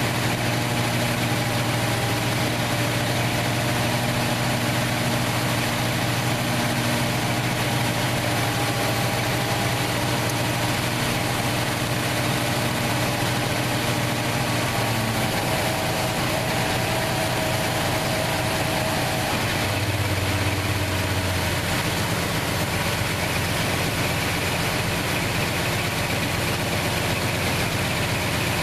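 1968 Plymouth Fury's 383 big-block V8 idling steadily after years out of action, its idle note shifting about halfway through.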